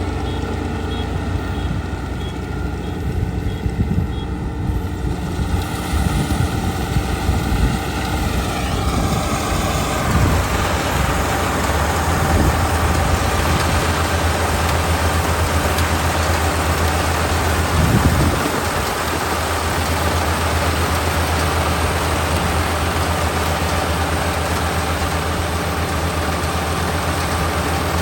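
Kubota ER572 combine harvester's 72-horsepower diesel engine running under a steady low hum. Over the first ten seconds or so a whine rises in pitch as the machine speeds up, then a full, steady mechanical noise holds, with a brief louder bump about 18 seconds in.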